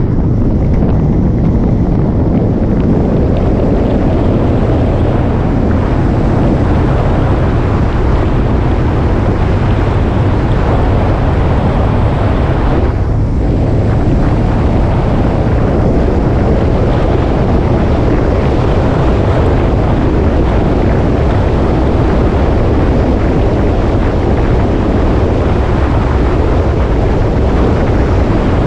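Motorcycle underway: its engine running steadily under heavy wind rushing over the microphone.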